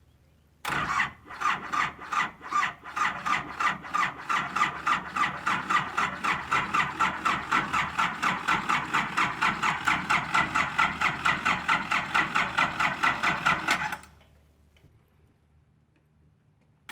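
A four-cylinder diesel truck engine being turned over by its electric starter for about thirteen seconds, the cranking rhythm quickening from about two to about four or five beats a second, then cutting off suddenly. It does not start: the replacement battery is still too weak to crank it well.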